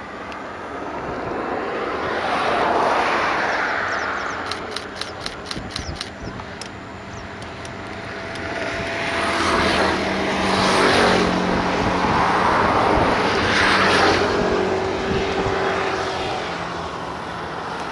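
Passenger trains passing on the line: a broad rush of wheels on rail that rises and fades, several passes in turn. A quick run of sharp, evenly spaced clicks comes about five seconds in.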